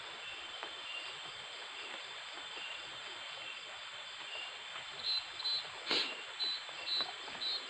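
An unidentified animal calling at night by a small stream: short high chirps, often in pairs, about two a second, starting about five seconds in, with one sharp click among them. Underneath runs a steady hiss of stream and insects, with a faint short note repeating under a second apart.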